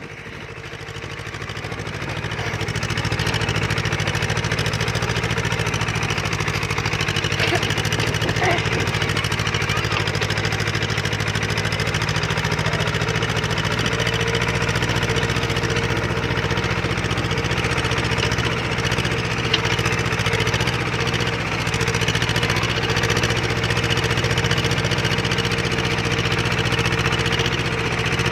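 Tractor engine running steadily, growing louder over the first few seconds and then holding an even note.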